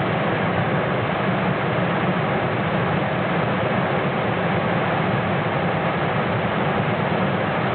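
1998 Ford F-150's 4.6-litre Triton V8 idling steadily, still warming up after a cold start.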